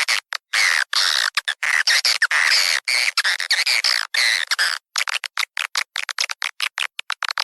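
Swiftlet lure recording: swiftlet calls in a dense, chattering twitter that about five seconds in breaks into rapid short chirps and clicks, played to draw swiftlets into a swiftlet house.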